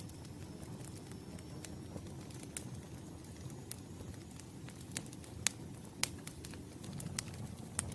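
Wood fire crackling: irregular sharp snaps and pops over a steady low rumble of burning flames, with a couple of louder pops a little past the middle.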